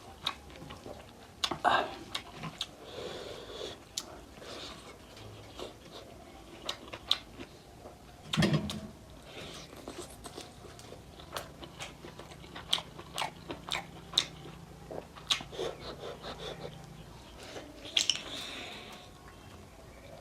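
Close-miked eating of spicy mutton nalli curry with rice: chewing and biting with many short, wet mouth clicks.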